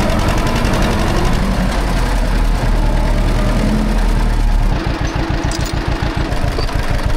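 John Deere tractor engine running steadily while pulling a disc harrow through a field. About two-thirds of the way in the sound turns a little quieter and more throbbing.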